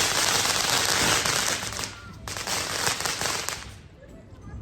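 Fireworks crackling with rapid pops. The crackle breaks off briefly about two seconds in, resumes, then stops about three-quarters of the way through.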